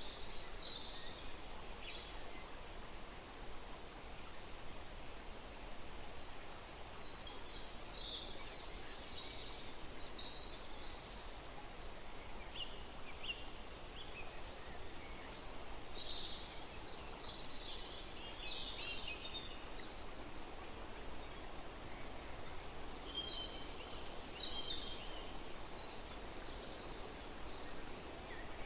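Songbirds chirping and twittering in scattered clusters of short high calls, over a steady rushing background of wind in trees and running water.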